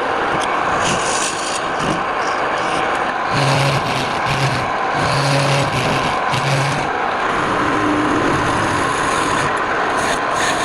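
Wood lathe running, with a turning tool or abrasive rubbing on the spinning wood in a steady scraping hiss over the motor's hum.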